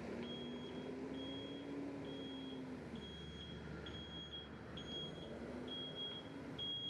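A high electronic beep repeating at a steady pitch about once a second, each beep about half a second long, over a faint steady background hum; the beeps grow a little louder toward the end.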